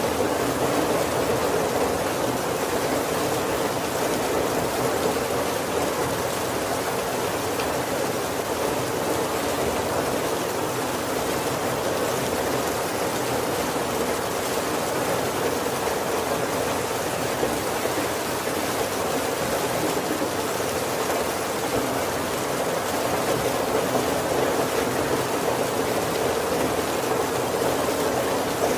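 Steady heavy rain drumming on a wooden roof.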